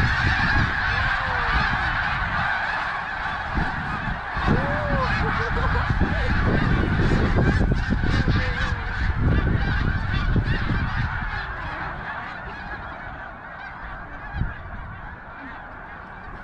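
A huge flock of snow geese honking all at once: thousands of calls merged into one dense, continuous din that eases off over the last few seconds. Wind rumbles on the microphone underneath.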